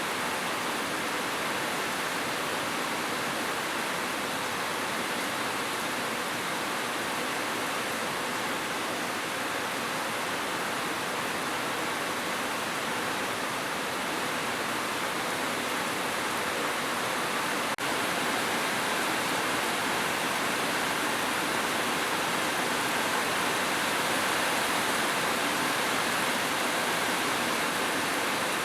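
Heavy rain falling steadily on a roof, an even dense hiss without thunder, with one brief click about eighteen seconds in.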